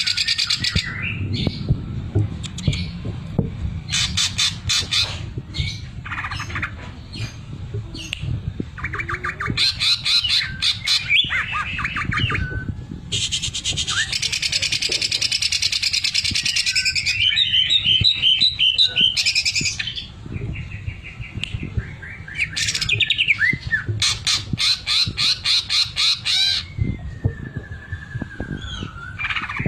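Cucak ijo (green leafbird) singing a loud, varied song. Bouts of very fast, evenly repeated sharp notes and rattles (the 'sewing machine' mimicry, isian mesin jahit, that keepers prize) alternate with chirps and whistled glides.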